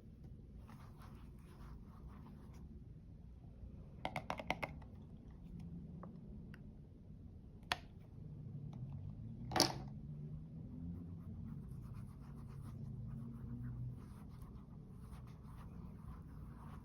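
Close-up makeup handling: soft scratching strokes of makeup on a surface, with a quick run of about five small clicks about four seconds in, a single click a few seconds later and a sharper, louder click just past the middle.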